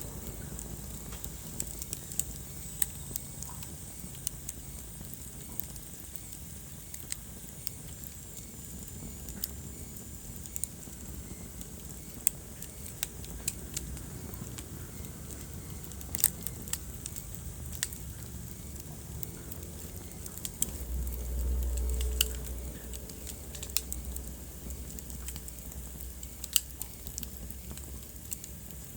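Wood fire in a fireplace crackling, with irregular sharp pops over the low steady rumble of the flames; the rumble swells for about two seconds roughly three quarters of the way through.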